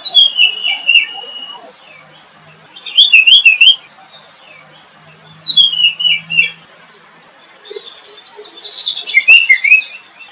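Small birds chirping and twittering in four short bursts of quick, high notes, a few seconds apart.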